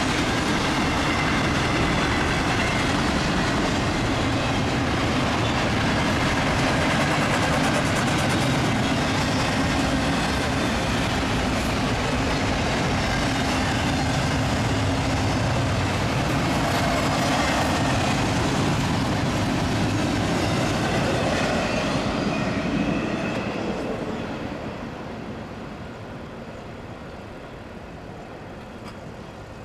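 Intermodal freight train's cars, trailers and double-stacked containers on flatcars, rolling past at speed: steady rumble of wheels on rail. About 23 seconds in, the noise drops away as the end of the train passes and recedes.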